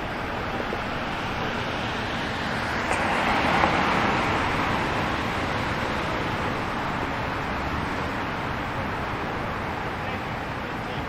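City street traffic noise, with one vehicle passing close by, loudest about three to four seconds in before fading back into the steady traffic hum.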